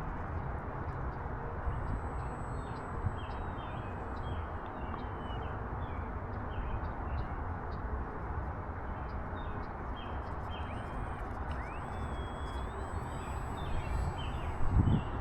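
Wind rushing over the microphone, with a few stronger gusts thumping near the end, and birds chirping over and over, short notes several times a second.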